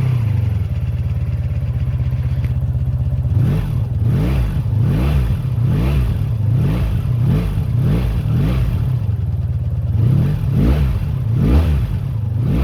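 Honda V30 Magna's 500cc V4 engine idling, then, from about three seconds in, revved in a quick series of short throttle blips, its pitch rising and falling over and over.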